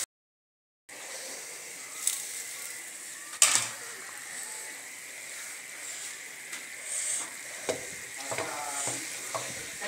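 Chicken and moringa-flower (suhanjna) curry sizzling in oil in a steel pan while it is sautéed and stirred with a wooden spoon, a steady hiss starting about a second in. The spoon knocks against the pan twice, about two and three and a half seconds in, the second knock the loudest.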